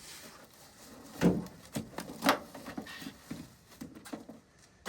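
A few sharp knocks and clatters of hard objects being handled and set down, the loudest about a second in and again about two seconds in.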